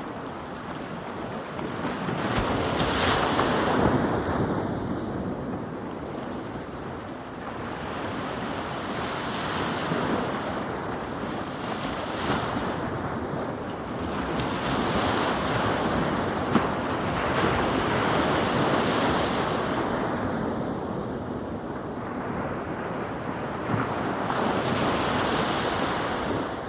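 Ocean waves breaking and washing onto a beach, the surf swelling and ebbing in slow surges every few seconds, with wind buffeting the microphone.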